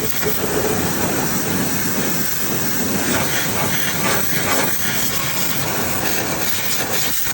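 Steady, loud hiss of a water spray, washing grease out of an engine compartment; it cuts off suddenly near the end.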